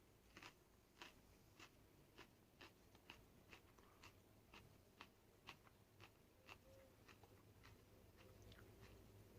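Faint chewing of a raw Aji Rainforest pepper pod (Capsicum baccatum), a steady run of crisp crunches about two a second.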